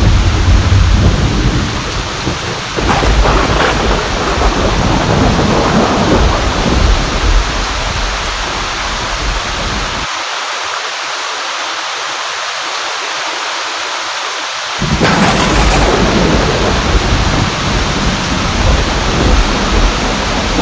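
Steady heavy rain with rolling thunder rumbling low beneath it. The rumble drops away for a few seconds past the middle, leaving only the hiss of rain, then comes back suddenly and loudly with a thunder crack.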